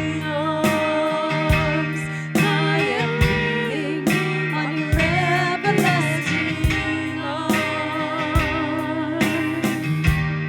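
A song: singing over guitar accompaniment with a steady beat.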